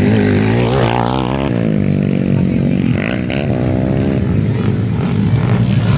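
Underbone motorcycle engines racing on a motocross track, their pitch rising and falling quickly as the riders work the throttle.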